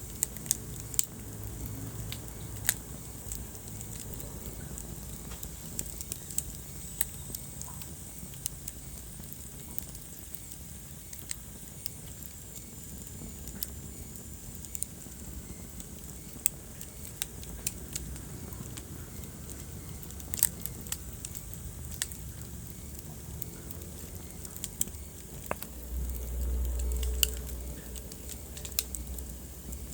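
Wood fire burning in a fireplace, crackling and popping with irregular sharp snaps over a steady low rumble. A louder low rumble swells for about two seconds near the end.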